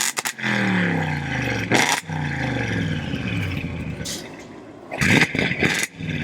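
Car engine being revved in several blips, its pitch falling back after each one.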